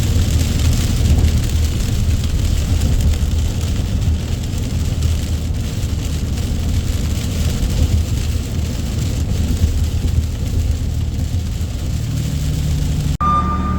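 A truck driving on the road: a steady low engine drone under a constant wash of road and wind noise. It cuts off abruptly near the end, giving way to a steady high tone.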